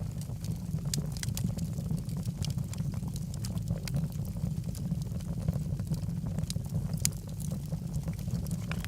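Logs burning in a fireplace, crackling with frequent sharp pops over a steady low rumble. The loudest pops come about a second in and about seven seconds in.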